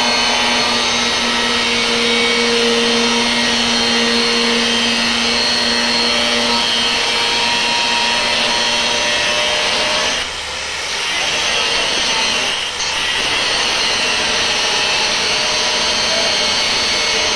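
Metal sheet being cut: a steady, loud hissing rush that dips briefly about ten seconds in and again a few seconds later.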